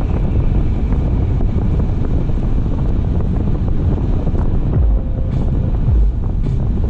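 Steady wind and road rumble of a car driving, buffeting the dashcam's microphone.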